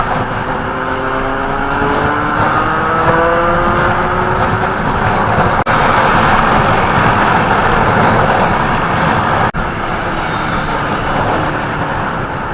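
Motorcycle engine accelerating, its pitch climbing steadily over about five seconds, then a dense rush of wind and road noise at speed. Another climb in engine pitch begins near the end.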